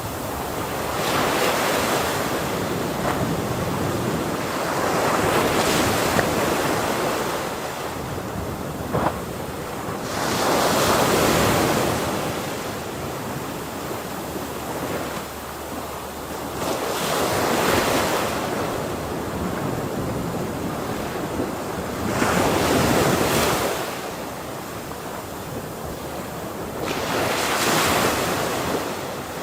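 Ocean waves breaking on a shore: the surf swells and crashes about every five to six seconds, with a steady wash of water between.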